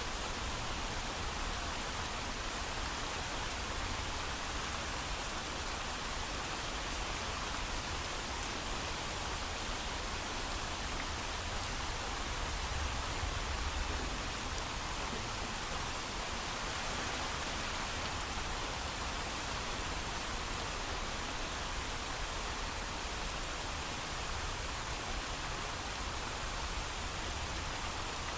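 Steady heavy rainfall without thunder: an even, unbroken hiss with a low rumble underneath.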